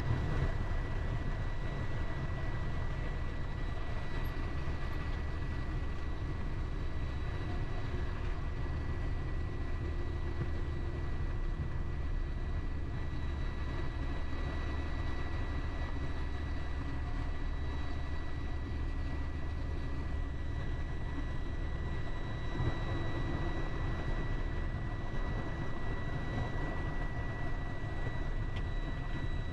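Truck engine and road noise from inside the cab while driving: a steady low rumble with a thin, steady high-pitched tone over it.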